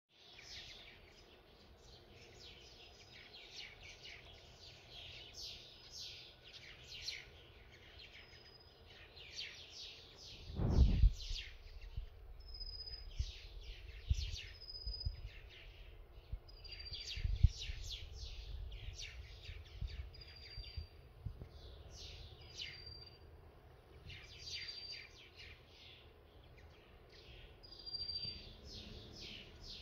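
Small birds chirping in repeated clusters of high, quick notes every second or two, with a short clear whistled note recurring alongside. Two low thumps break in, the louder one about ten seconds in.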